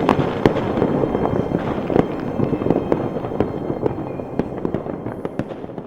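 New Year fireworks going off all around, a dense crackle of many sharp bangs over a low rumble that fades away toward the end.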